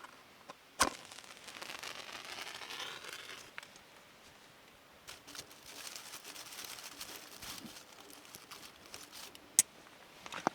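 A campfire being started in kindling: a sharp snap, a hiss for about two seconds, then light crackling and rustling of burning kindling, with another sharp snap near the end.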